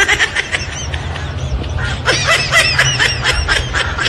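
A group of animals giving many rapid, short, high-pitched calls in two bouts, one at the start and a longer one from about two seconds in, over a steady low hum.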